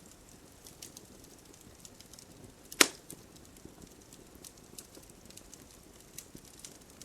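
Wood campfire crackling, with scattered small pops and one loud, sharp snap near the middle.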